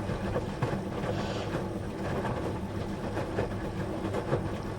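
Steady low mechanical hum with many small clicks and knocks scattered through it.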